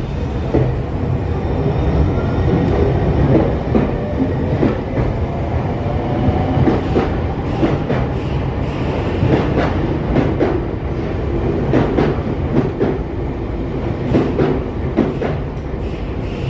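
Semboku Rapid Railway electric commuter train pulling out of the station and picking up speed: a steady rumble, wheels clicking over the rail joints faster and faster, and a faint rising motor whine. Brief high wheel squeals come about halfway through and again near the end.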